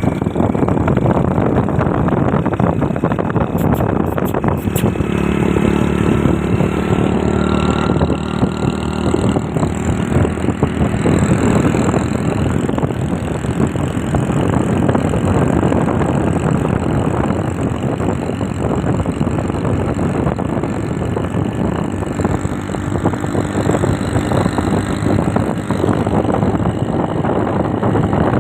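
Motorcycle running along the road, its engine mixed with a steady rush of wind across the microphone. A faint pitched engine note shows around five to nine seconds in.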